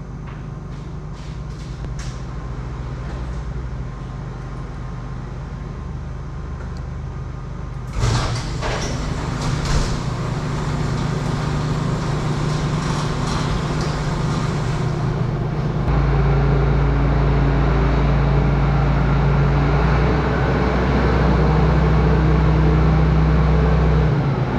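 John Deere 7710 tractor's six-cylinder diesel engine running steadily, freshly reinstalled after a rear main seal repair and sounding good. It gets louder with some clattering about a third of the way in, and louder again with a deeper steady note around two-thirds through, easing off just before the end.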